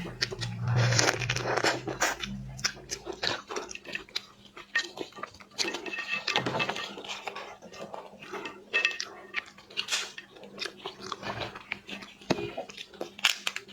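Close-miked eating of shellfish: irregular crunching and wet chewing, with sharp cracks and clicks of shell being bitten.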